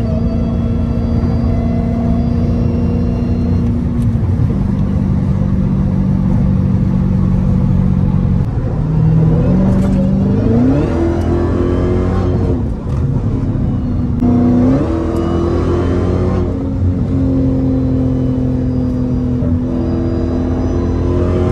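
Dodge Hellcat's supercharged 6.2-litre V8 running while driving, mostly at a steady pitch, with rising revs about halfway through and again about two-thirds of the way in as the car accelerates.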